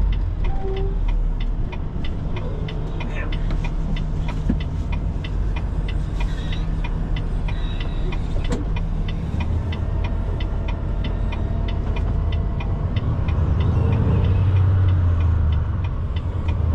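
Semi truck's diesel engine running while driving, heard from the cab, with a turn signal ticking steadily at about three ticks a second. The engine grows louder near the end.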